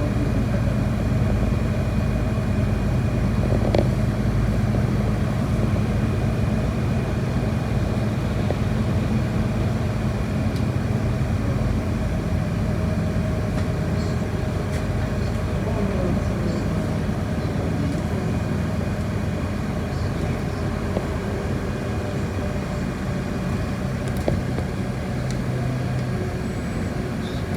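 City bus engine running, heard from inside the passenger cabin as a steady low rumble, with a few faint rattles and clicks.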